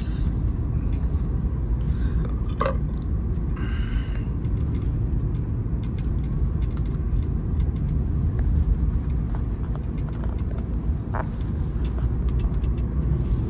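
Car interior road noise while driving: a steady low rumble from the engine and tyres, with scattered faint ticks and two brief higher sounds.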